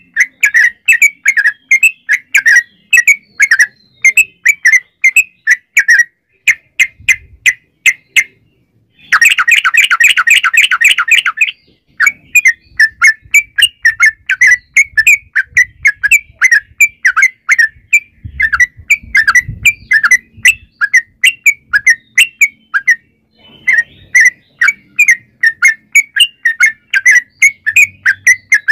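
Yellow-vented bulbul (trucukan) calling in a long rapid string of short, loud chirping notes, a few a second. About nine seconds in, after a brief pause, it breaks into a faster, denser rattling run for about three seconds, then goes back to the chirping series.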